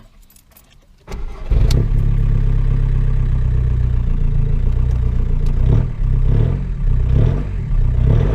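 A Seat Leon's turbo-diesel engine, fitted with a hybrid turbo, being started: after about a second of quiet the starter cranks briefly, and the engine catches and settles into a loud idle with a few slight wavers in speed. This is the first start after a new ECU map has been flashed.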